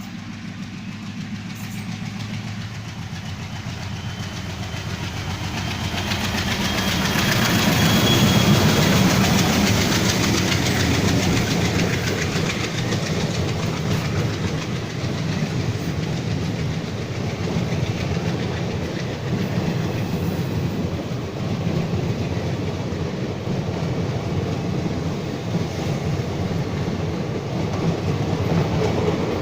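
Diesel-hauled Indian Railways passenger train running, its wheels clattering over the rail joints. The sound grows louder over the first eight seconds, then holds steady.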